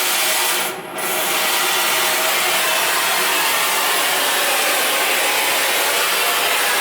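Brazing torch flame hissing steadily while a refrigerant line joint on a new evaporator coil is brazed, with a short dip in the hiss about a second in.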